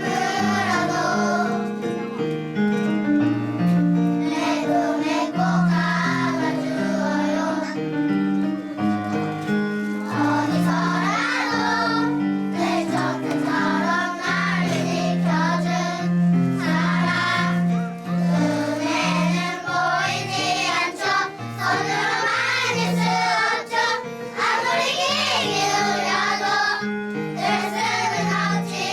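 A group of young children singing a song together in unison over a steady instrumental accompaniment.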